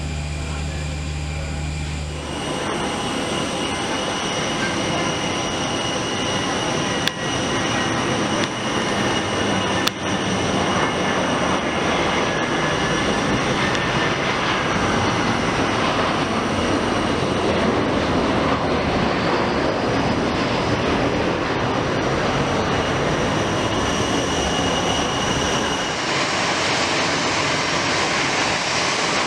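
Jet engines of an easyJet Airbus A320 arriving on the runway: a loud, steady roar with high whining tones that starts suddenly about two seconds in, after a low hum.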